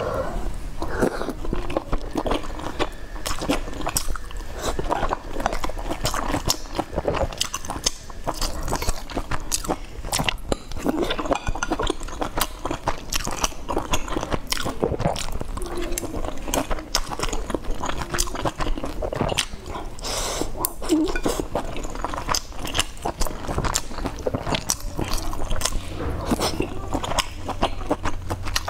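Close-miked chewing and wet mouth sounds of a woman eating soft boiled dumplings, with many small lip and tongue clicks.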